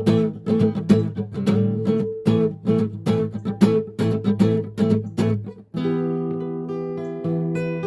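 Guitar jam in A minor: quick rhythmic strumming, then a chord let ring from about six seconds in.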